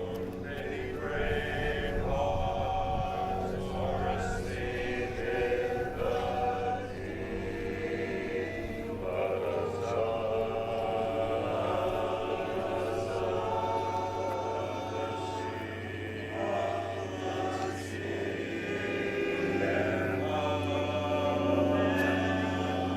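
Barbershop chorus singing a cappella in close four-part harmony, with long held chords.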